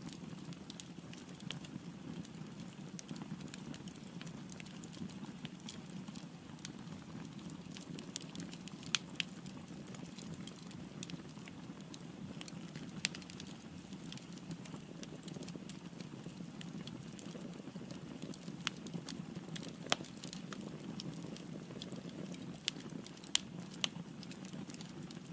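Firewood burning in a fireplace: a steady low rush of flames with scattered sharp crackles and pops, a few of them louder.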